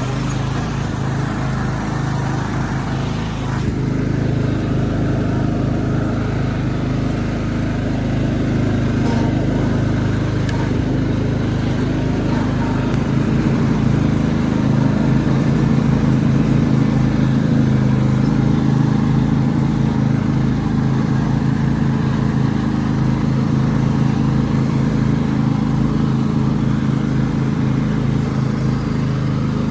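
Tractor engine running steadily under way, a little louder from about four seconds in.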